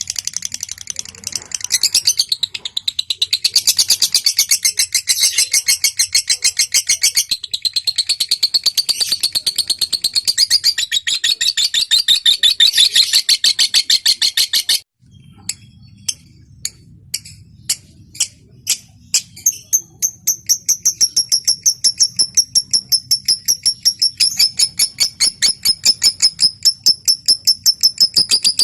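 Lovebird song: a fast, high chattering trill that breaks off about halfway through. A few separate ticks follow ('ngetik'), then the bird goes into a long, even, very rapid high trill ('ngekek').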